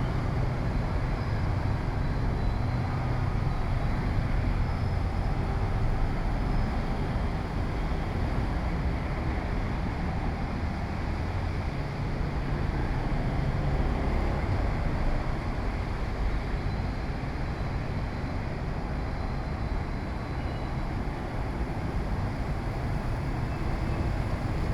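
Steady low rumble of street traffic mixed with strong wind buffeting the microphone. It is even throughout, with no single event standing out.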